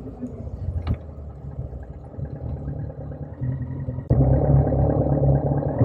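Motorcycle engine running, a steady low rumble that gets suddenly louder about four seconds in.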